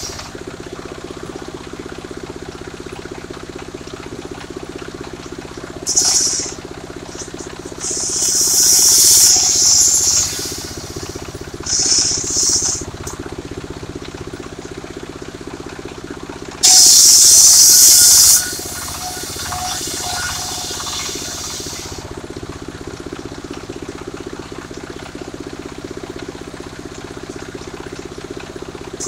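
Engine-driven circular sawmill running steadily, with four bursts of loud high hissing as the blade rips through sengon timber. The loudest and longest burst comes about two-thirds of the way in.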